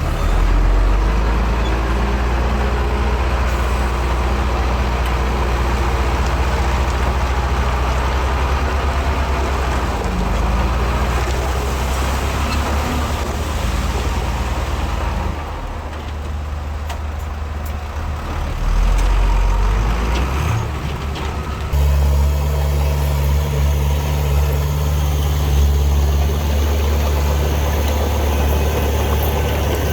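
Heavy diesel engines of earthmoving machinery running steadily. The engine sound changes abruptly about two-thirds of the way in.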